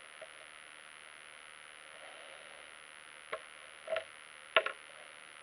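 A few small sharp clicks and taps from battery test leads and clips being handled on a workbench, about three, four and four and a half seconds in, over a faint steady hiss.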